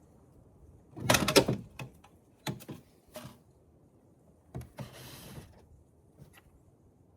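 Tools and hardware being handled: a burst of clattering knocks about a second in, a few single knocks after, and a short scrape a little past the middle.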